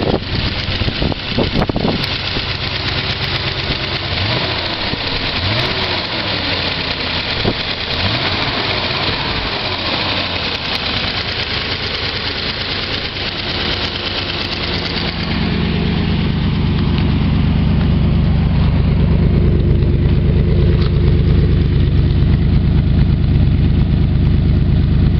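Triumph Stag's original 3.0-litre V8 idling, heard first over the open engine bay as a broad hiss and whir. From about fifteen seconds in it is heard at the twin tailpipes, where a deeper, steady exhaust note takes over and is louder.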